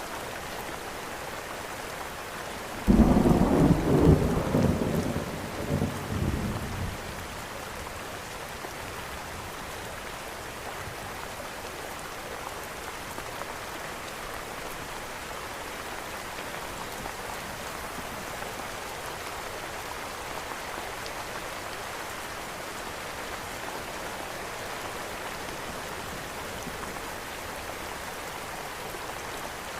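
Steady rain falling, with a sudden clap of thunder about three seconds in that rumbles away over the next few seconds.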